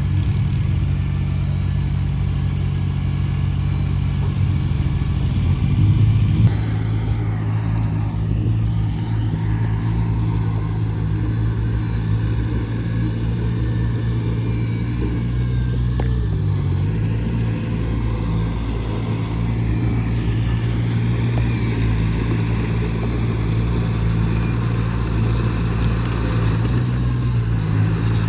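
Heavy diesel engine of earthmoving machinery running steadily under load, its note shifting about six seconds in.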